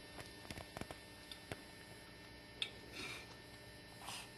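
Quiet room with a low steady electrical hum and a few faint, scattered clicks and taps, the clearest about two and a half seconds in.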